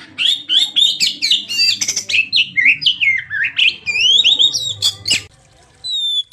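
Oriental magpie-robin singing a fast, varied song of rapid chirps and whistled glides. The song breaks off about five seconds in, and a clearer whistled phrase starts near the end.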